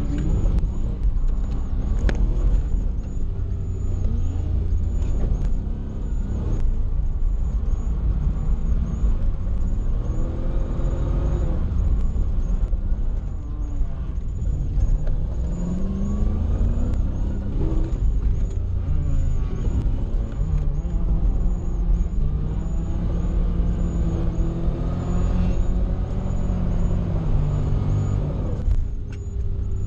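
Toyota 1UZ-FE V8 in a Nissan 240SX, heard from inside the cabin, revving up and falling back again and again as the car is driven through a drift run.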